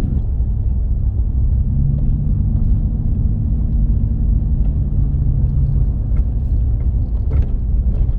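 Vehicle driving along a dirt trail: a steady low rumble of engine and tyres, with a faint hum from about two to six seconds in and a few light clicks.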